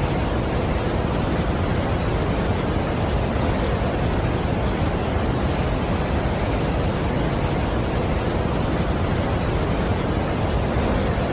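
Steady, unbroken rush of a large waterfall, Niagara Falls. It is an even noise, heaviest in the low end, with no change in level.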